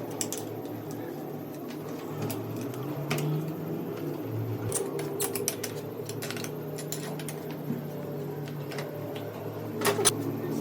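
Scattered sharp clicks and light taps, irregular, with a cluster near the end, over a steady low hum.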